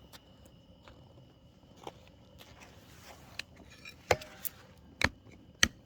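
Wood being cut and broken for a fire: a few sharp knocks and cracks, a faint one about two seconds in and three loud ones close together in the second half, the first of them with a brief ring.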